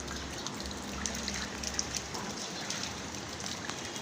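Rain falling steadily, an even hiss made up of many small drop impacts. A low hum runs under it and stops about halfway through.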